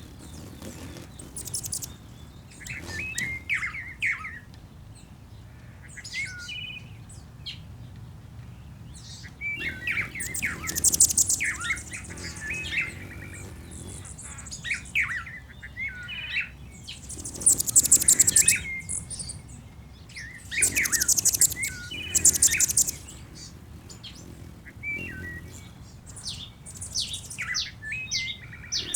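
Background birdsong ambience of mixed chirps and short whistles, with several loud, very high, rapid trills lasting a second or two each.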